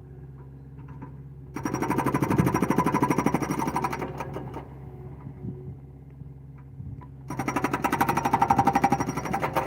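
Excavator engine running steadily, interrupted twice by loud bursts of fast, even hammering or rattling, each about two to three seconds long.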